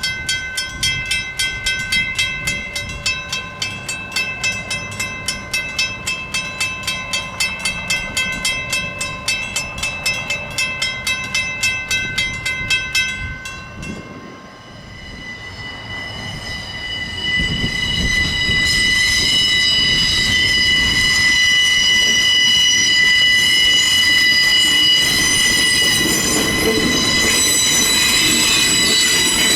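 A railroad crossing bell rings with rapid, even strikes, then stops about halfway through. A sugarcane train then rolls past, its wheels squealing in a steady, loud, high whine.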